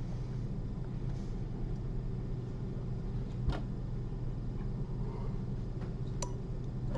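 Steady low electrical room hum, with one sharp click about three and a half seconds in and a fainter tick near the end.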